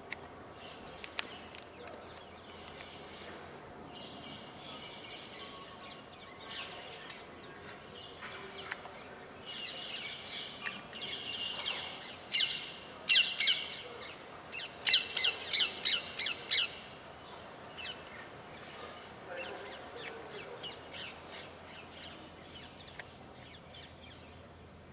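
Birds calling: scattered high chirps, then loud, sharp squawks about halfway through, ending in a quick run of about six calls in under two seconds.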